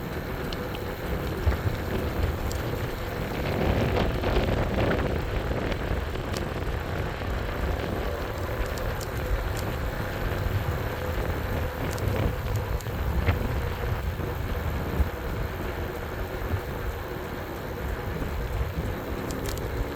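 Riding noise on an e-bike: wind buffeting the microphone and tyres rolling over the road, a steady rumbling hiss with a few faint ticks and a faint steady hum.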